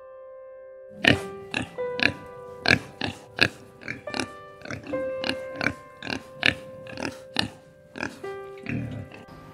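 A pig grunting in short, sharp bursts, about two a second, over light piano music.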